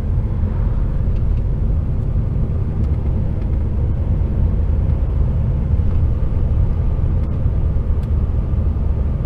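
Heavy goods vehicle's diesel engine and road noise heard from inside the cab while driving: a steady low rumble with a faint engine hum.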